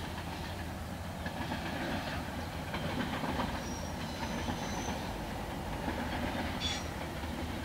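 Freight train of container wagons rolling past: a steady rumble and rattle of wagon wheels on the track.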